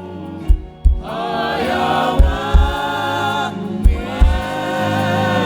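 A group of voices singing a gospel worship song with a band. Low drum beats fall in pairs, roughly every second and a half to two seconds.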